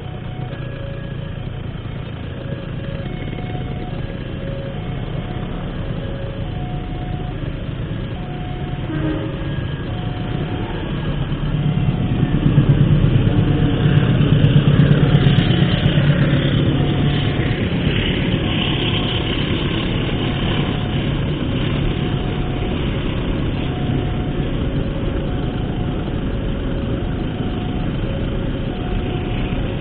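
Railway level-crossing warning signal sounding a steady alternating two-tone chime, about one tone a second, while a train passes through the crossing: its rumble and rail noise swell from about 11 seconds in, are loudest for the next several seconds, then fade. A low engine idle runs underneath.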